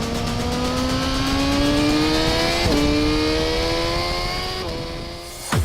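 Suzuki GSX-R1000R's inline-four engine accelerating hard at high revs, its pitch climbing steadily. It shifts up about a third of the way in and again near the end, the pitch dropping sharply at each shift before climbing again, then fades.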